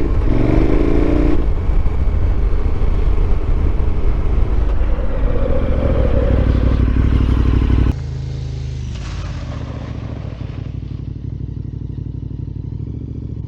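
KTM 1290's V-twin accelerating along a gravel road with heavy wind rush and tyre noise, then braking hard with ABS in off-road mode so the rear wheel slides. About eight seconds in the rushing noise drops abruptly, leaving the engine idling steadily.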